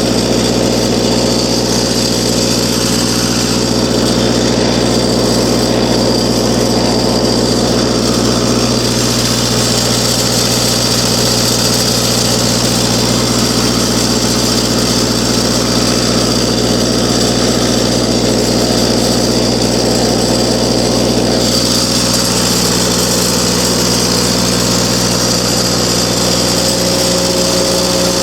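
Kubota engine of an engine-driven welder running steadily at a constant speed, its tone changing slightly about three-quarters of the way through.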